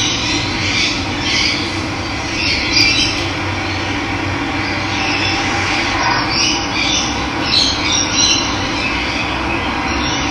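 Steady rush of running water, with birds chirping and calling over it throughout.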